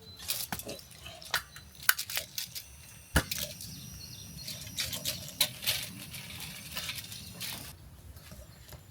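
Camp utensils and cookware being handled: scattered light clicks and knocks, with one sharper knock about three seconds in.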